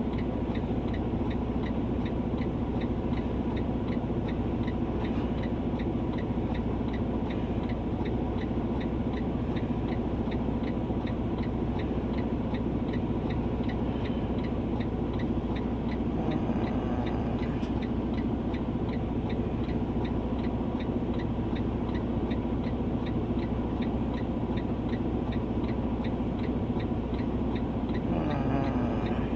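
A steady machine hum with a fast, even ticking running through it.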